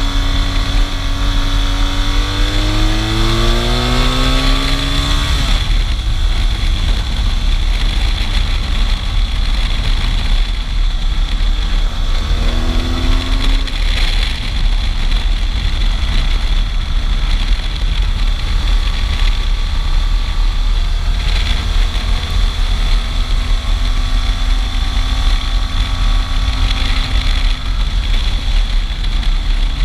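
Motorcycle engine under way over a steady rush of wind. It revs up, its pitch rising through the first five seconds, then pulls up again briefly about thirteen seconds in before settling to steady running.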